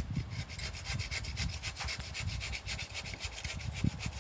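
Hand saw cutting through a thick dead tree limb in quick, even back-and-forth strokes, the teeth rasping on the wood.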